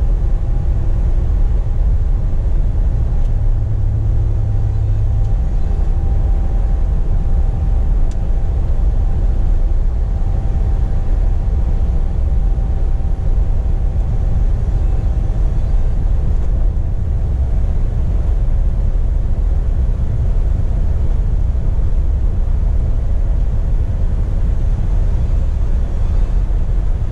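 Scania P420 truck heard from inside the cab while driving: a steady low engine and road rumble. A faint steady whine runs over it during the first half.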